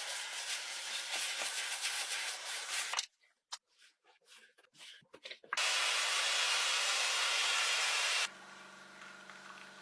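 Automatic car wash: water spray and washing hiss in abruptly cut sections. There is a nearly quiet stretch with scattered drips and taps about three seconds in, then loud, even spraying, then a quieter steady machine hum near the end.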